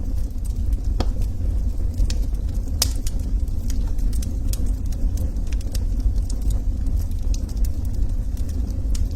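Log fire crackling: frequent irregular sharp pops and snaps over a steady low rumble.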